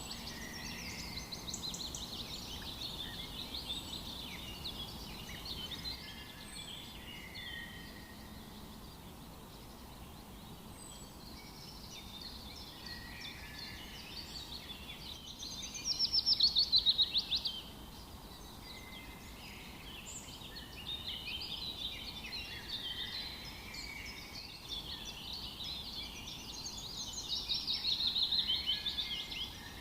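Several wild songbirds singing together in a continuous chorus of chirps and trills. Rapid trilled phrases stand out loudest about halfway through and again near the end.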